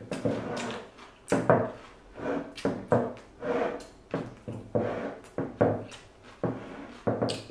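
Close-miked eating sounds of spring rolls being chewed with the mouth full, with puffing breaths, in short bursts about twice a second.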